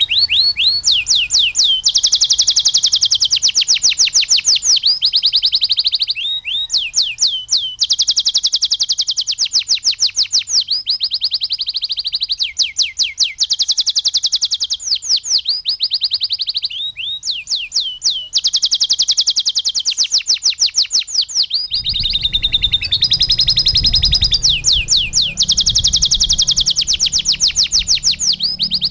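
Domestic canary singing continuously: a chain of fast, high trills, each run of identical repeated notes lasting a second or two before switching to another. A low rumble joins underneath about three-quarters of the way through.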